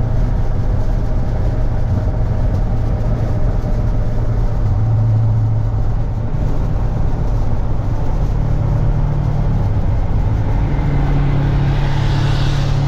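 Car engine running steadily under road noise while driving, with a low drone throughout. The engine note steps up in pitch twice in the second half.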